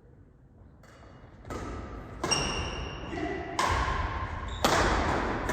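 Badminton rally in a sports hall: five sharp racket hits on the shuttlecock, about a second apart and growing louder, each ringing on in the hall, with brief high squeaks that sound like shoe squeaks on the court floor.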